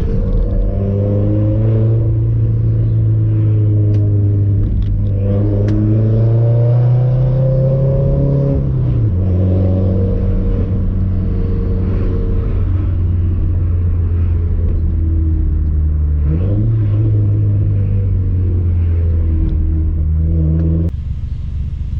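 Nissan 240SX with an ETS Extreme cat-back exhaust pulling through the gears under acceleration. The exhaust note rises in pitch and steps down at gear changes around 9 and 16 seconds in, then eases off near the end.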